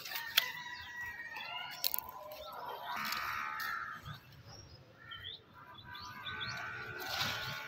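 Small birds chirping with short rising and falling calls, with a single sharp click just under half a second in.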